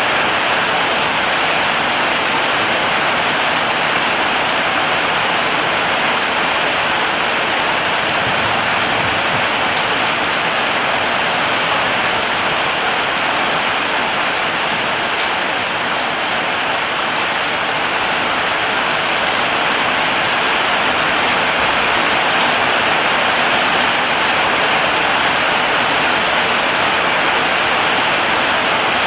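Heavy rain falling steadily: an even, unbroken wash of noise with no separate drops or thunder standing out.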